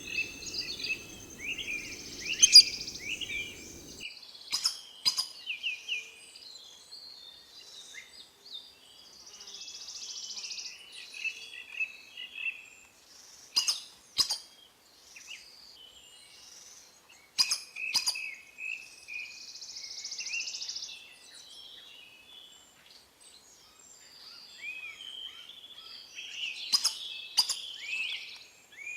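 Several wild birds chirping and calling, with a sharp doubled call note that repeats four times, spaced several seconds apart.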